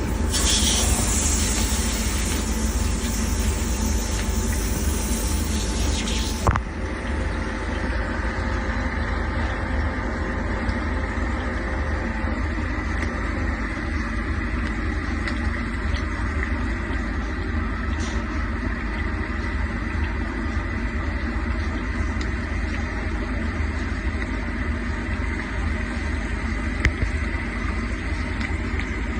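A loud hiss for the first six seconds or so cuts off suddenly with a click. After it, a refrigeration unit's motor runs on with a steady hum and a high whine. This is the noisy motor at the top of the unit, which runs warm and which the technician means to replace.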